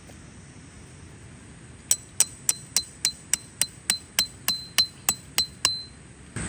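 A hammer driving a metal tent stake into the ground: about a dozen sharp, ringing metallic strikes, roughly three a second, starting about two seconds in and stopping just before the end.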